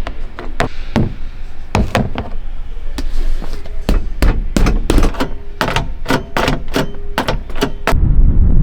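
A long, irregular series of sharp knocks and thuds, some coming in quick pairs. A low, steady rumble starts near the end.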